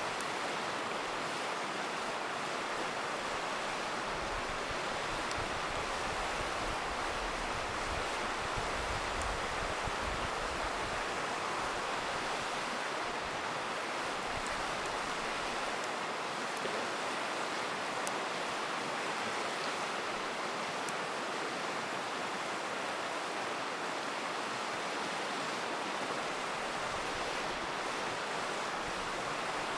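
River rushing steadily, with a few sharp pops from a crackling campfire, the clearest about 18 seconds in.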